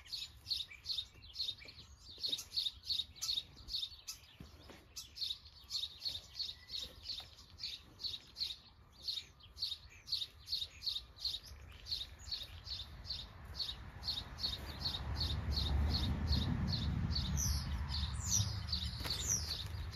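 A small bird chirping over and over, one short high chirp about three times a second. About three-quarters of the way through, a low rumble rises under the chirping and eases near the end.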